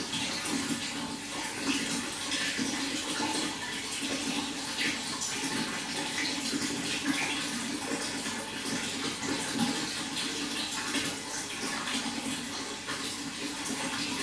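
Running water, a steady splashing and gurgling flow with many small flickers and no pauses.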